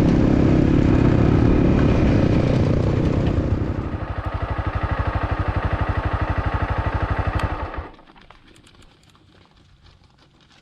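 Motorcycle engine running, dropping about four seconds in to an idle with an even pulsing beat, then switched off about eight seconds in. A few faint clicks follow.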